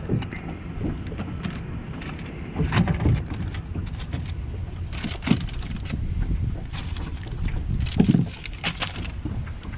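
A steady low rumble with scattered knocks and clatter, several of them louder, as food and cookware are handled.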